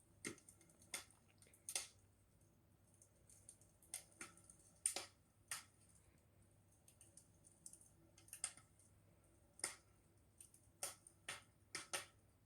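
Wood fire crackling: sharp, irregular pops and snaps over a quiet background.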